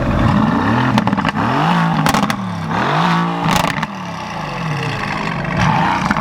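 Mercedes-AMG GT S twin-turbo V8, tuned by Starke, being revved in place with its exhaust valves open: about four quick throttle blips that rise and fall. Sharp pops and cracks come from the exhaust near the peaks of the revs.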